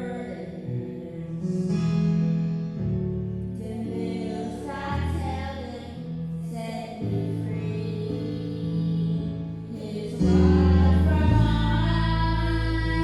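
A male vocal duet singing a gospel song over accompaniment with long held bass notes. It grows louder about ten seconds in.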